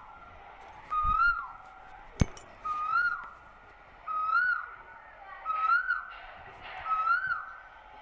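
A bird calling five times, about every second and a half: each call a short whistled note that rises and then falls. A single sharp click comes about two seconds in.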